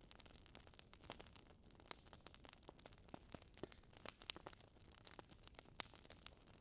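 Faint crackling of a fireplace fire: irregular small pops and snaps, a few a second.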